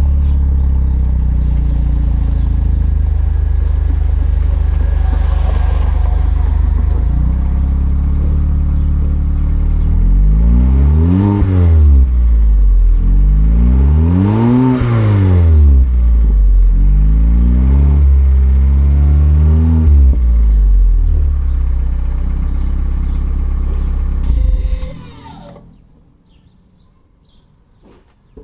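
2021 Mazda 3's 2.5-litre turbocharged four-cylinder, breathing through a MagnaFlow axle-back exhaust and 63.5 mm midpipe, idling with a low, deep tone, then revved in four blips, the second the longest, before settling back to idle. The engine is switched off near the end and the sound stops.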